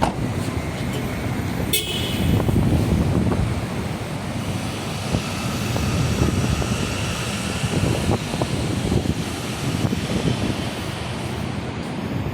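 Motor traffic and road rumble, with gusty low wind-like noise, and a brief high toot about two seconds in.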